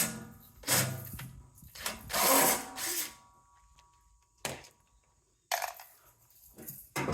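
Intermittent clanks and scrapes of tools and metal parts as the motor is worked off a scrap water pump unit: about seven separate short bursts, the loudest about two seconds in.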